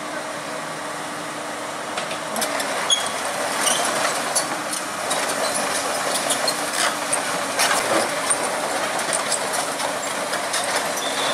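Heavy diesel engine running steadily, then working harder from about two seconds in, with scattered metallic clanks and knocks throughout.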